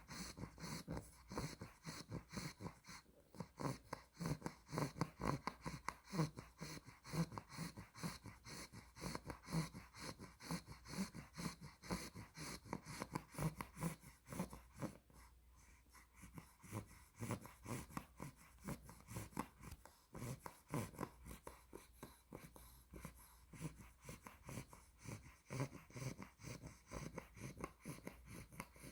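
Two-month-old Olde English Bulldog puppy snoring in its sleep: quick, short breaths, several a second, with a brief lull about halfway through.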